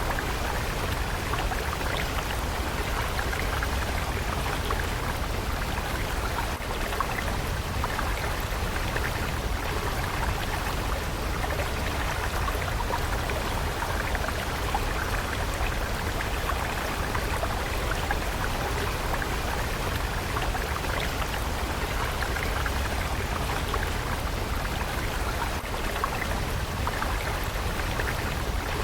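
Steady rushing and splashing of a flowing water stream, constant in level, with a low rumble beneath.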